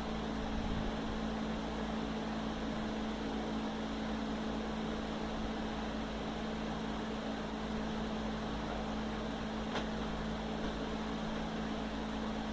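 A steady machine hum with a strong low drone, unchanging throughout.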